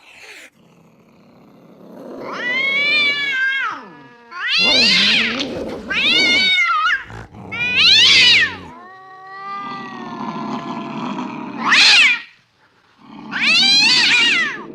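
Cats yowling in a run of about seven loud, drawn-out calls that rise and fall in pitch, one longer and lower near the middle: angry cats threatening each other.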